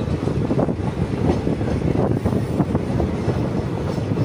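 Passenger train running along the track, heard from aboard: a steady rumble with a constant rattle and clatter of the coach.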